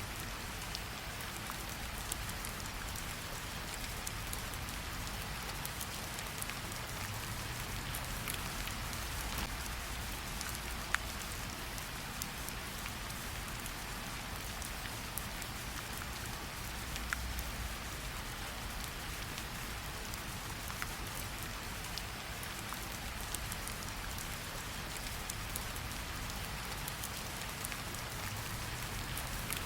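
Steady gentle rain falling on tree leaves: an even hiss dotted with many separate drop taps, a few of them louder, such as one about eleven seconds in.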